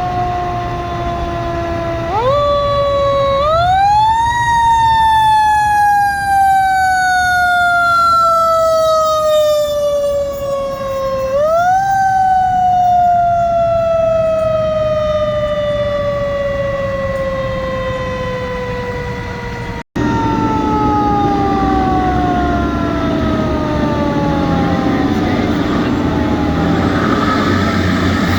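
Fire truck siren winding up twice, each time climbing quickly in pitch and then falling slowly over several seconds, and fading toward the end under the rumble of truck engines.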